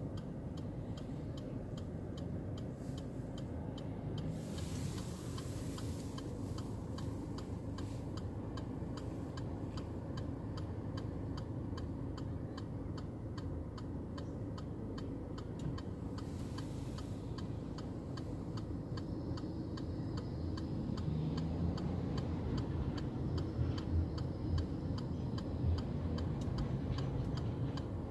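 Fast, regular ticking over a steady low rumble, with two brief hissing swells, about five and sixteen seconds in.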